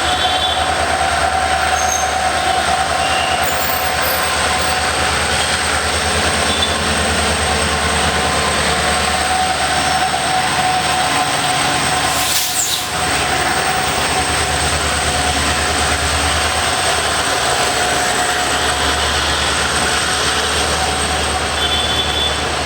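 Train rolling past close by, its coaches rumbling on the rails with a steady high-pitched wheel squeal held throughout. The sound briefly dips about halfway through.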